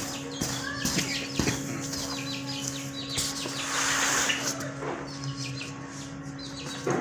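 Many caged fancy birds chirping and calling over one another, with a brief rushing noise about four seconds in, over a steady low hum.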